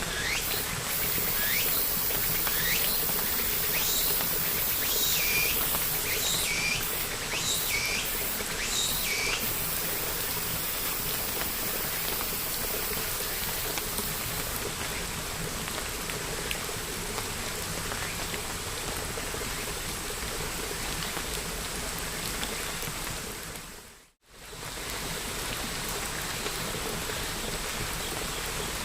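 Steady rain falling, with a bird giving short, high, sweeping chirps about once a second through the first third. Near the end the sound dips briefly to silence and comes back.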